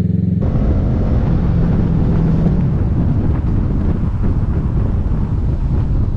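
Kawasaki Ninja 650 parallel-twin engine with an M4 full exhaust, running steadily under way. From about half a second in, a steady rush of wind on the microphone joins it.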